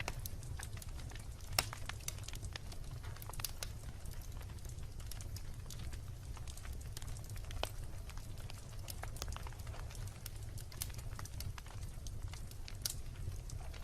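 Wood fire burning with frequent irregular sharp crackles and pops over a steady low rumble of the flames.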